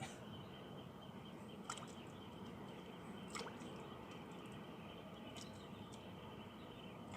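Faint dripping and lapping water over a low steady hiss, with a few light clicks spaced a second or two apart.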